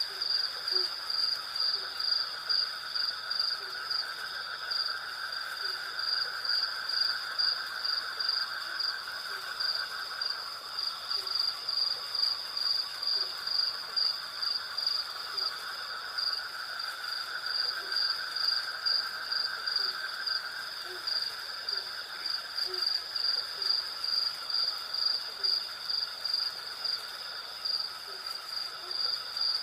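A night chorus of crickets and other insects. One high chirp pulses evenly about twice a second over a steady high trill, with a lower continuous trill that swells and fades slowly underneath.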